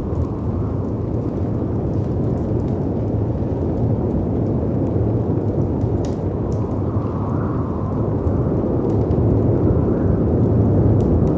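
Layered storm ambience: steady rumbling wind and surf from breaking sea waves, swelling briefly a few times, with faint scattered crackles of a wood fire over it.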